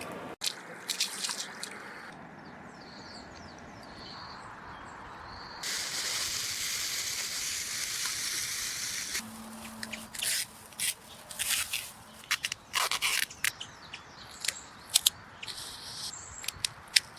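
A steady hiss lasting about four seconds, then a run of many short clicks and rustles of handling.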